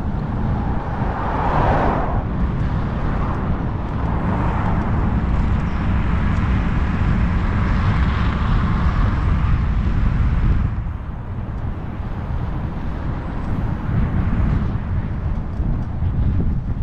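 Strong wind buffeting the microphone of a bike-mounted action camera during a road ride, a heavy low rumble, with a rushing road and traffic noise that swells early and through the middle and eases about two-thirds of the way through.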